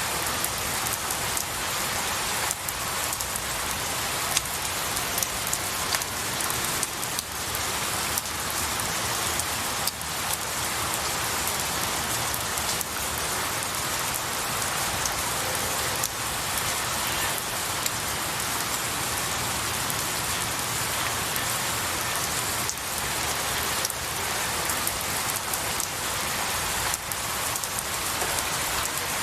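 Steady rain falling on pine needles and tree branches, a continuous patter with occasional louder single drops.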